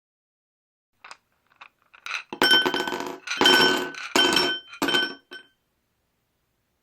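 Ice cubes clinking and rattling against a hard surface in four or five short bursts, each with a bright ring, after a few faint clicks.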